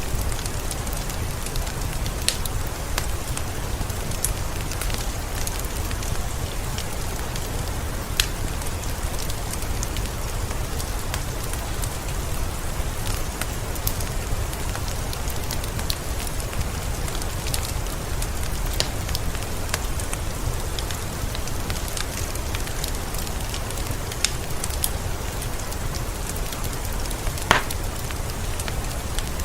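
Wood fire crackling and popping, with sharp snaps scattered irregularly and one louder pop near the end, over the steady hiss of rain and a low rumble.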